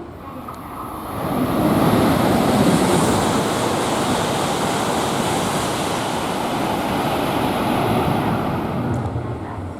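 Tohoku Shinkansen train passing through the station at speed without stopping: a loud rush of air and wheel noise that swells about a second in, holds steady for about eight seconds and dies away near the end.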